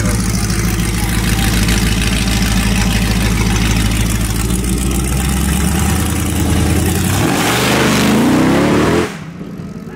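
Engines of a Jeep Grand Cherokee Trackhawk and a twin-turbo F-150 running loud at the start line, then a hard launch about seven seconds in: engine pitch climbs steeply for nearly two seconds before the sound cuts off abruptly.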